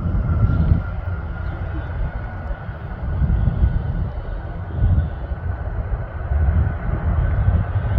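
Airbus A330 jet engines at takeoff thrust during the takeoff roll: a deep, uneven rumble under a steady whine that slowly rises in pitch.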